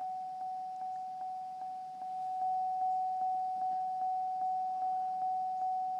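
Chevrolet Trailblazer's dashboard warning chime dinging over and over, a single steady pitch repeating about two and a half times a second, each ding ringing into the next.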